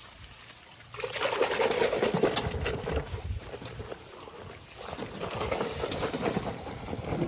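Water splashing and pouring in two long bursts, the first starting about a second in and the second near the five-second mark.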